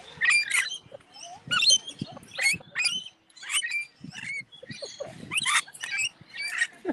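A crowd of birds calling at once: rapid, overlapping squeaky chirps and squawks, several a second.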